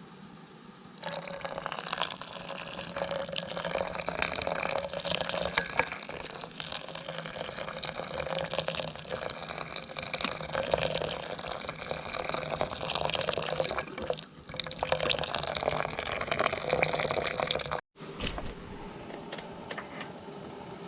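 Water pouring steadily in a continuous splashing stream; it starts suddenly about a second in and stops abruptly near the end.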